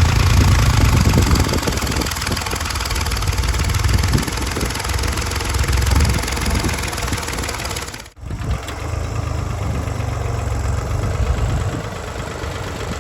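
New Holland 3630 tractor's three-cylinder diesel engine running steadily under load while pulling a cultivator. The sound drops out for an instant about eight seconds in.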